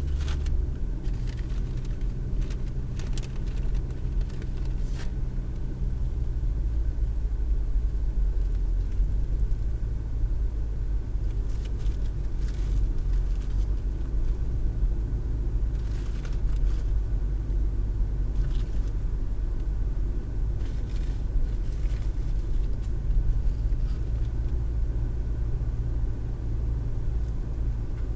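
Car driving, heard from inside the cabin through a dash cam's microphone: a steady low rumble of road and engine noise. The engine's hum changes pitch about a second in and blends into the road noise after about six seconds, with a few faint clicks.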